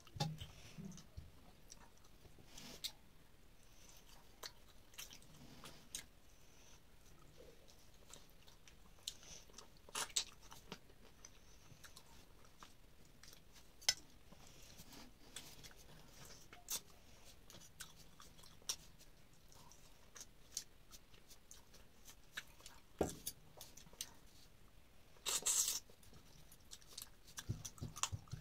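Quiet chewing and mouth sounds of a person eating rice and curry by hand, with scattered soft clicks as fingers work the food on a metal plate. A brief louder noise comes near the end.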